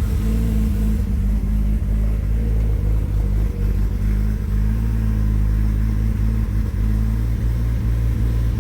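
Car engine running on E85 ethanol fuel and idling steadily while it warms up after a cold start.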